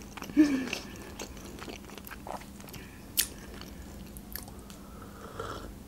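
Close-miked mouth sounds of a person chewing and swallowing, with soft wet clicks and one sharper click about three seconds in.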